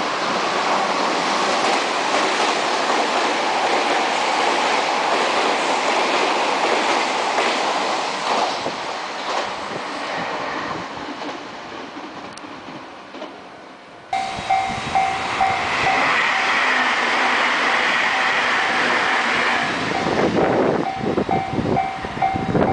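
Meitetsu Panorama Super electric train running past, a loud rush of wheel and running noise that eases off. About fourteen seconds in, the sound cuts abruptly to another train passage, with a steady pulsing tone and rail knocks over the running noise.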